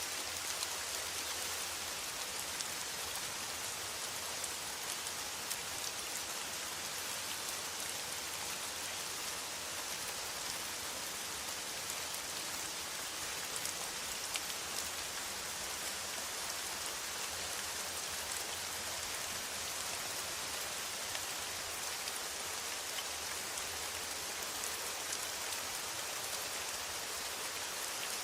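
Steady rain falling on a metal roof: an even hiss made of countless fine drop ticks, with no letup.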